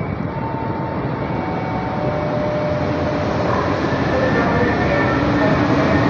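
EP09 electric locomotive hauling a passenger train, approaching along the platform and running past, its rail and running noise growing steadily louder as it nears.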